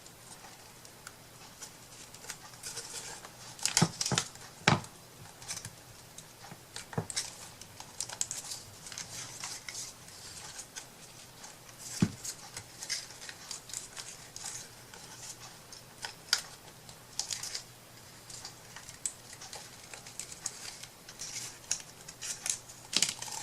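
Scattered light clicks, taps and rustles of small craft pieces being handled on a work table, with a few sharper knocks.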